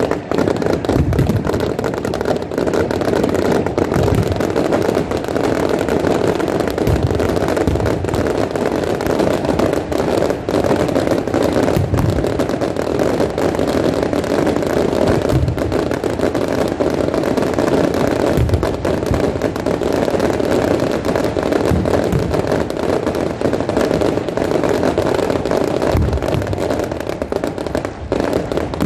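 Fireworks display: a dense, continuous crackling with low booms at irregular intervals.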